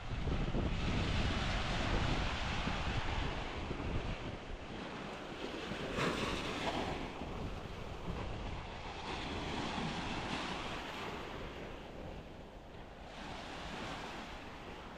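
Mediterranean surf washing onto a sandy beach, swelling every few seconds as waves come in, with wind buffeting the microphone as a low rumble.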